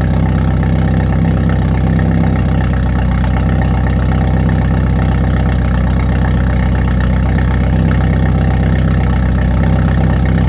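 2023 Hyundai Elantra N's turbocharged 2.0-litre four-cylinder idling steadily after a cold start. It has a loud, even drone through a Borla ATAK cat-back exhaust with a high-flow catted downpipe.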